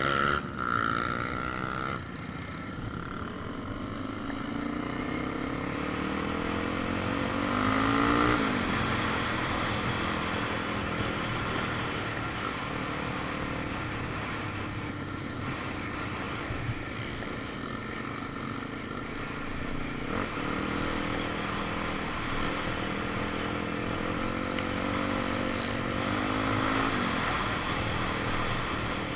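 A motor vehicle's engine running, its pitch climbing for the first eight seconds or so, dropping suddenly, then rising and falling again later as it changes speed.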